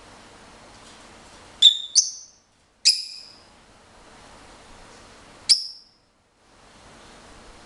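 Pet lovebird giving short, sharp, high-pitched chirps: two in quick succession about a second and a half in, a third about a second later, and a last one a few seconds after that.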